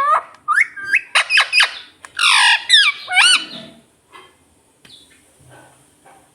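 Ringneck parakeet calling, a rapid run of loud squawks and screeches with sharply bending pitch that stops about four seconds in, leaving a few faint sounds.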